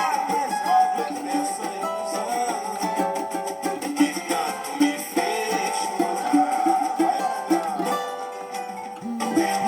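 Cavaquinho playing the melody of a pagode song, with quick, rhythmic plucked notes over a steady shaker-like percussion rhythm.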